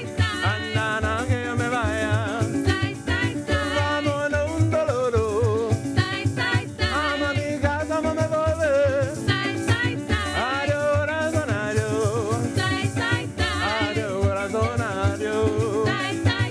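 Live parang-style band music: a solo voice sings a Spanish-language melody with wavering, ornamented lines over a steady bass pulse and shaken maracas.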